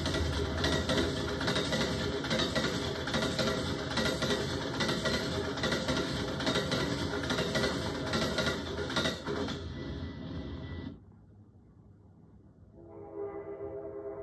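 Amtrak passenger train passing close at speed, with a loud rush of wheels on rail and steady clicking from the wheels, cutting off about eleven seconds in. Near the end a train horn sounds a steady multi-note chord.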